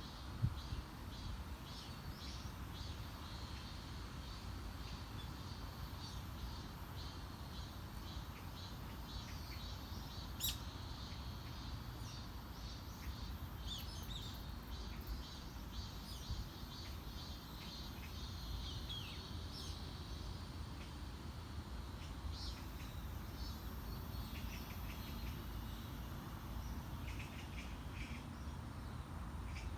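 Summer wind ambience: a steady low rumble of wind, with birds chirping on and off throughout. A single sharp click about ten seconds in.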